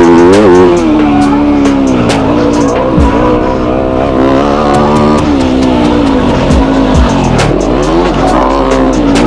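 Yamaha YZ250F four-stroke single-cylinder dirt bike engine being ridden hard, its revs climbing and dropping again and again as the throttle opens and closes through the gears. A few sharp knocks cut through the engine noise.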